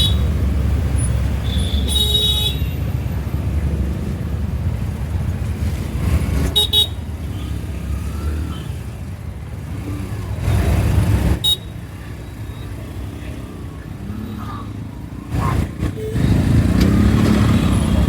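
City road traffic heard while riding a scooter: a steady low rumble of wind and passing vehicles, with short car-horn toots a few times.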